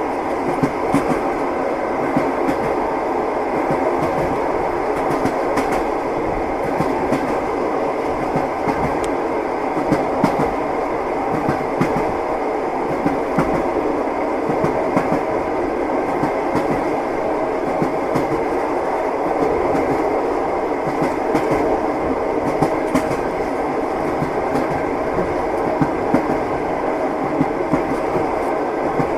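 Train running steadily, with the wheels knocking and clacking over the rails under a continuous rumble.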